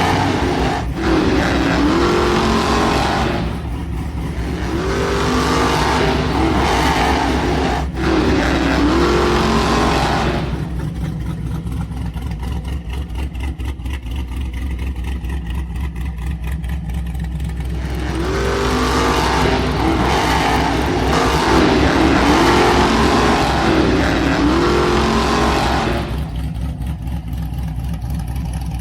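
Radio-controlled monster truck's motor whining up and down in pitch as the throttle is worked in bursts, with a quieter rattling stretch in the middle where the truck eases off.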